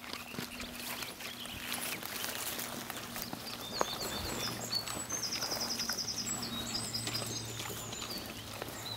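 Small birds singing in the background, with a quick run of short, high repeated notes in the middle, over a steady outdoor background hiss.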